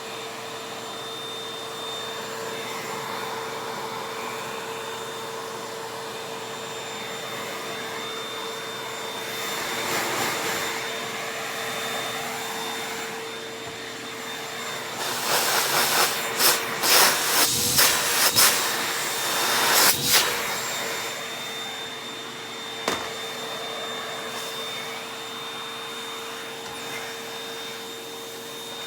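A vacuum cleaner running steadily with a constant whine. About halfway through comes a spell of loud rattling clicks as things are sucked up, then a single sharp click a few seconds later.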